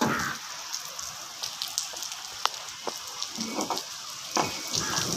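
Steady rain falling, an even hiss with scattered sharp taps of drops striking close by.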